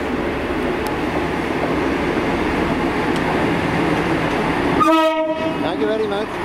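Class 158 diesel multiple unit running in along the platform, its engine and wheel noise building as it draws close. About five seconds in the train sounds a short horn note, followed by brief fainter wavering squeals.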